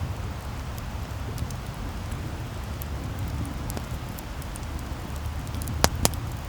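Wood campfire burning: a steady low rumble with scattered small crackles, and two sharp pops about a quarter second apart near the end.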